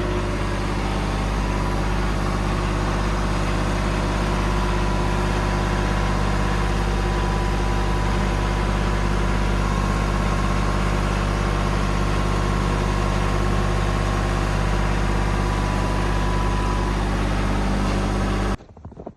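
A motor engine running steadily at a constant speed, with a steady low hum. It cuts off suddenly near the end.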